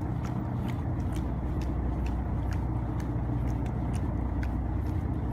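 Fishing boat's engine running steadily, a low even hum, with a few faint clicks over it.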